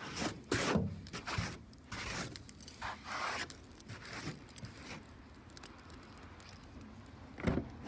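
Irregular scraping and rustling, busiest in the first few seconds and fainter after, with a short thump near the end.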